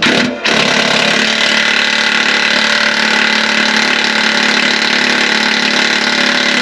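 A power tool's motor running steadily under load at one even pitch. It starts after a short burst about half a second in, while a stuck exhaust fastener is being worked free.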